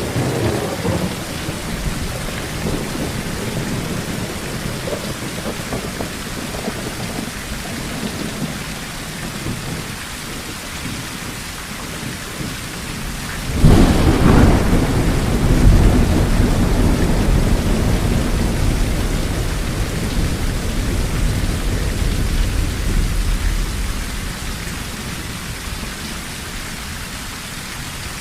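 Steady rain drumming on a tin roof, with thunder. A low rumble dies away over the first few seconds; about halfway through a sudden thunderclap breaks out and rolls on for about ten seconds before fading.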